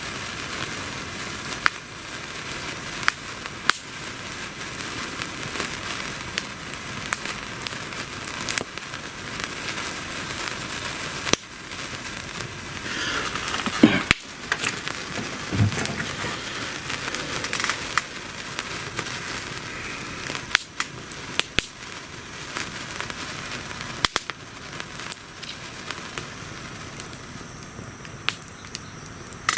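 Wood campfire crackling steadily, with sharp pops at irregular intervals.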